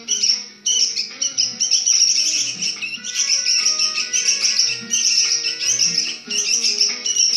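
A songbird singing a fast, continuous string of chirps and trills over background music.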